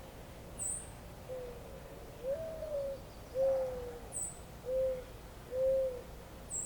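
A bird calling a series of about five low hooting notes, the second sliding up in pitch and the others arched. Three short, very high chirps from a small bird come about half a second in, past the middle, and at the very end.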